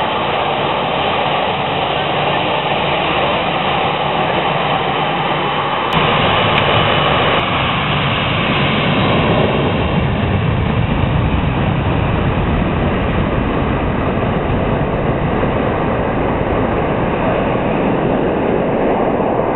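Boeing 737's jet engines at takeoff thrust: a loud, steady roar. About six seconds in the deep rumble grows stronger, and later the higher part of the sound fades while the low rumble stays.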